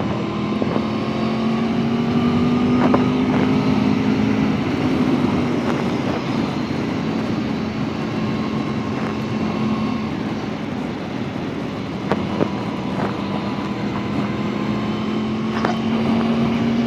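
Motorcycle engine running at cruising speed under wind and road noise, its note slowly rising under light throttle. The note drops about four and a half seconds in and climbs again later.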